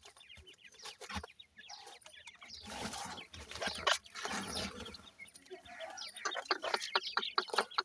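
Grey francolin chicks calling with many short, high cheeps and clucks. The calls come faster and louder near the end.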